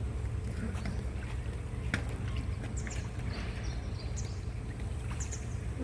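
Swimming-pool water splashing and lapping as someone swims, over a steady low rumble, with scattered small splashes throughout.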